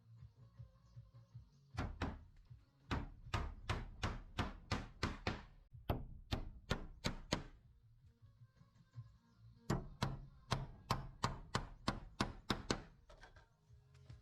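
Repeated blows of a hand tool, about three strikes a second, in two runs with a pause of a couple of seconds between.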